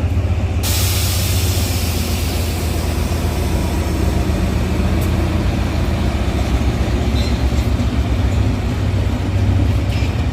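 Diesel engine of a GE locomotive running steadily, a deep, even rumble. A broad hiss sets in suddenly under a second in and carries on over it.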